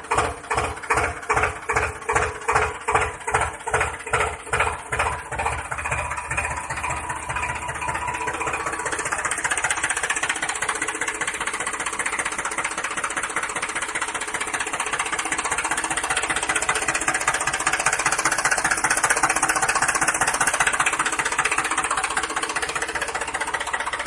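Engine-like running sound of a mini tractor. It starts as separate beats, about two and a half a second, that quicken and merge into a steady run after about six seconds.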